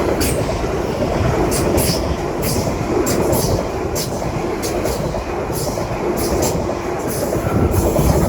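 Greater Anglia Class 745 Stadler FLIRT electric multiple unit passing through the station at speed: a loud, steady rush of wheels on rail with repeated sharp clicks.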